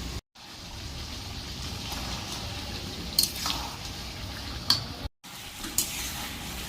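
Chicken curry cooking in a covered kadai on a low gas flame, a steady soft bubbling and sizzling, with a few sharp clicks and two brief silent gaps.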